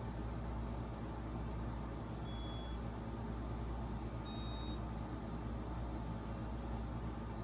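Casablanca Stealth ceiling fan motor running in its demo-mode cycle with a steady low hum. Three short electronic beeps at differing pitches come about two seconds apart.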